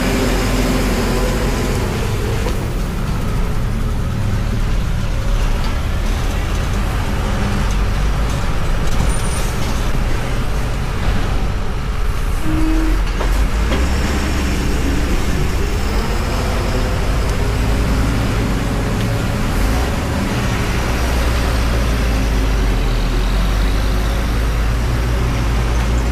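Heavy vehicle's engine running loud with a deep rumble, its pitch rising and falling as it labours round a steep hairpin bend.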